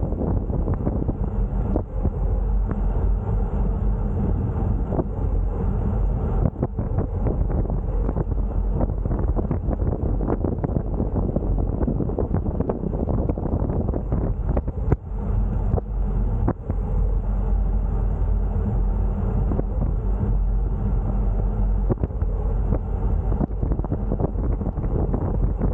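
Wind buffeting the microphone as a steady low rumble, with a few sharp knocks along the way.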